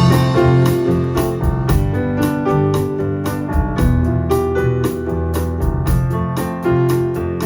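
Live band playing a song: keyboard chords and melody over a bass line, with a steady high-pitched percussion beat ticking about three to four times a second.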